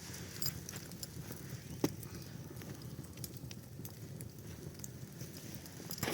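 Scattered sharp crackles and clicks over a low steady rumble, with one louder snap about two seconds in.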